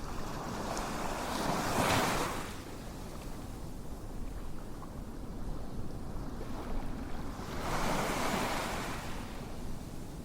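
Ocean surf: waves washing in twice, each a swelling and fading hiss over a steady low rumble.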